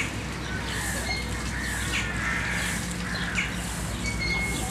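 Small birds chirping over and over, short high calls about once a second, some dropping in pitch. Under them, the soft scratching swish of a broom sweeping paving stones, stroke by stroke.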